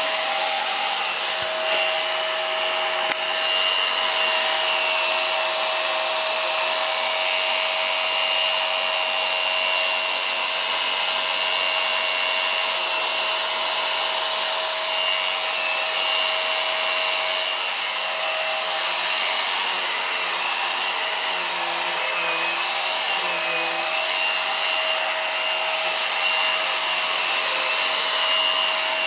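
Hoover Power Drive Pet upright bagless vacuum cleaner running steadily, its motor giving a constant high whine as it picks up husky fur from carpet.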